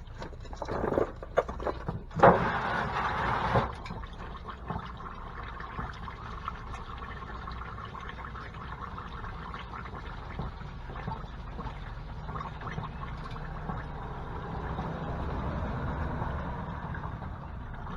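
Engine oil pouring in a steady stream from the open drain hole of a 6.4-litre Hemi's oil pan into a drain pan, after a few seconds of knocks and handling noise at the start.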